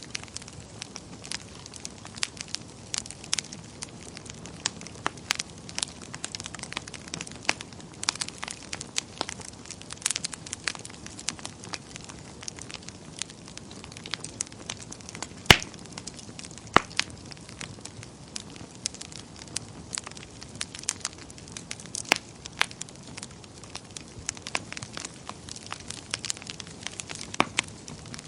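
Wood fire burning in a fireplace: irregular sharp crackles and pops over a soft steady hiss, with one louder pop about halfway through.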